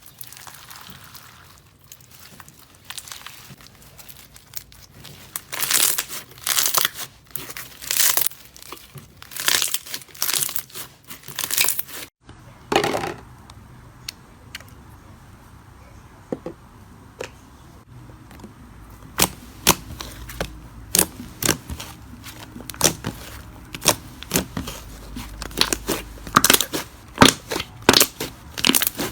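Slime being worked by hand, with sticky crackling and popping in separate bursts. About twelve seconds in the sound changes to quicker, sharper clicks and pops.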